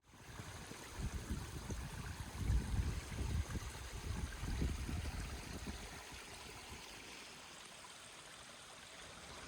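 Running water, a steady rushing hiss. Gusty low rumbles of wind on the microphone come and go through the first half, then settle.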